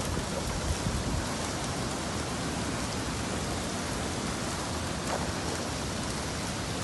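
Steady tropical-storm rain falling onto a flooded street and parked vehicles.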